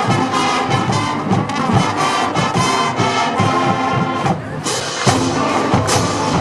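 High school marching band playing: brass (trumpets and trombones) over drums, with a short break in the sound about four and a half seconds in before the band comes back in.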